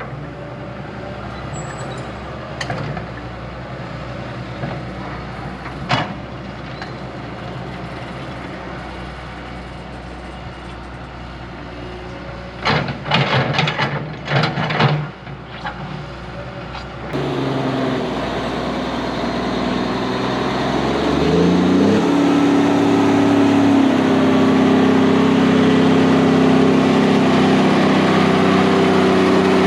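Heavy earthmoving machine's diesel engine running, with a few sharp clanks and a cluster of knocks about halfway through. Then the sound changes abruptly and an engine revs up and holds a steady, louder note.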